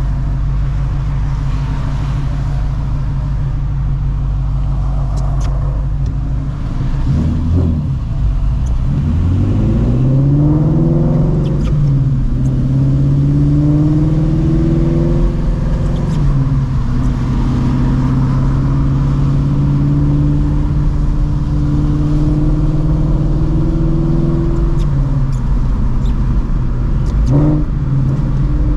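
Shelby GT350's 5.2L flat-plane-crank Voodoo V8, breathing through long-tube headers, an X-pipe and a Borla catback, idles steadily for about seven seconds. It then pulls away, the exhaust note rising through a couple of manual gear changes, and settles into cruising with a brief throttle blip near the end.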